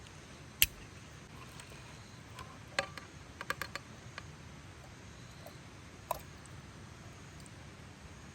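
A few scattered sharp clicks and light knocks over a faint steady hiss: a single click about half a second in, a quick run of small clicks around the middle, and one more near the end.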